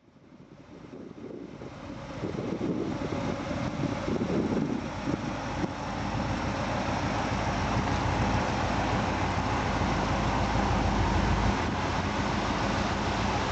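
1976 Chevrolet Corvette's 350 V8 idling steadily. The sound fades in over the first two to three seconds, then holds level.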